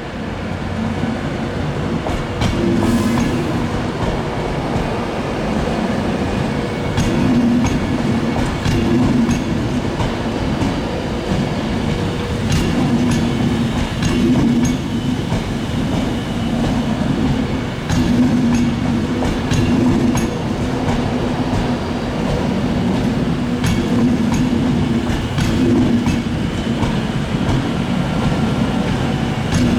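Avanti West Coast Class 390 Pendolino electric train on the move, its wheels clicking over rail joints and points in an irregular run of clacks over a continuous rumble.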